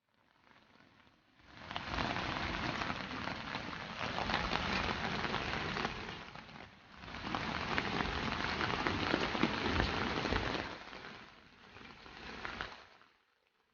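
Steady rain falling on a surface, a dense patter of many small drops. It swells in about a second in, dips briefly halfway through, and fades away near the end.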